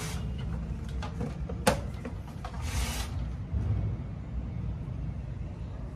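Handling noises from work on a machine: a sharp click about two seconds in and short scraping sounds over a low steady rumble.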